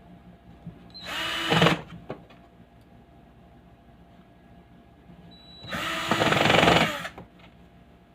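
A small handheld power tool, such as a drill/driver, runs in two short bursts about four seconds apart, the second one longer, its motor winding down at the end of each. A faint steady low hum runs underneath.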